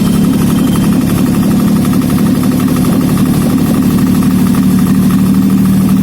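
Daihatsu KF-VE 660 cc three-cylinder petrol engine running steadily on a test stand, a used engine being run to check it.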